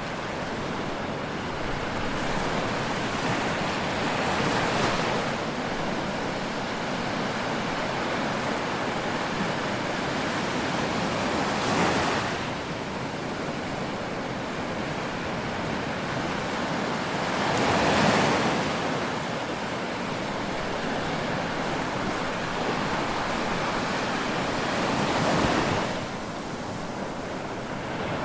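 Ocean surf: waves breaking on a beach one after another, four crests swelling and fading about every six to seven seconds over a continuous wash of water.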